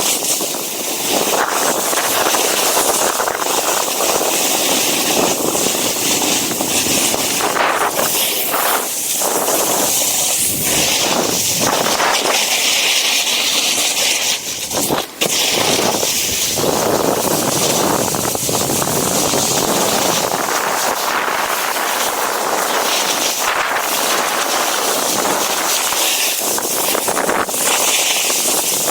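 Strong wind rushing and buffeting over the microphone, loud and steady, with a brief drop about halfway through.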